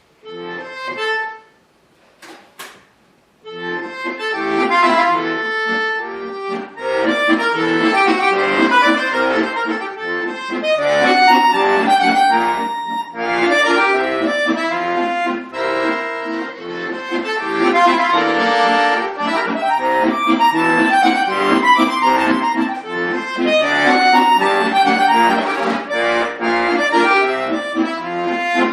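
Accordion music. A short opening chord is followed by a brief pause with a couple of small sounds, then continuous playing of quick runs of notes from about three and a half seconds in.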